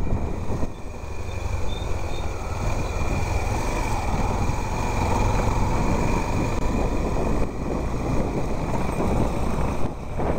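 A motor vehicle running, a steady low rumble with road and wind noise. A whine comes in about four seconds in and fades a few seconds later.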